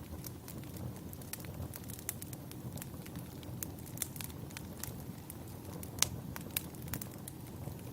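Wood campfire burning: a steady low rush with scattered crackles and pops of burning firewood, the loudest pop about six seconds in.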